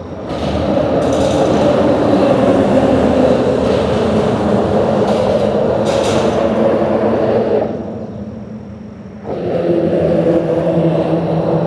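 Vehicles passing over a bridge: one passes loudly for most of the first eight seconds, it eases off, and a second comes through about nine seconds in.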